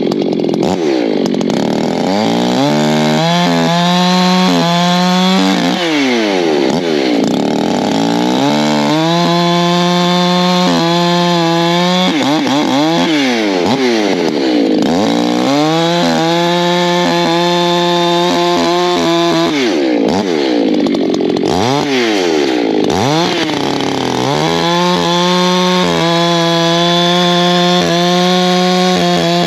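Echo two-stroke chainsaw bucking oak logs: it holds a steady high pitch through four long cuts, and between cuts the revs drop and climb again as the throttle is let off and squeezed.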